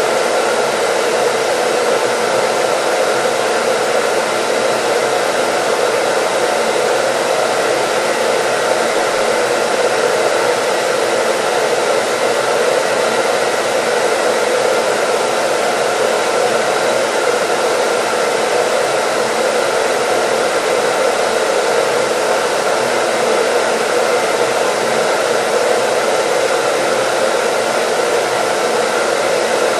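Electric hair dryer blowing steadily: a constant rushing of air with a faint, even motor whine, unchanging throughout.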